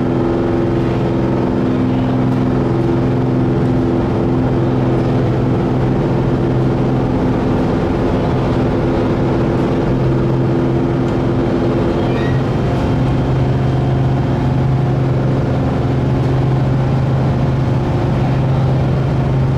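A large engine running at a constant speed, a steady low drone with a held pitch that shifts slightly about halfway through.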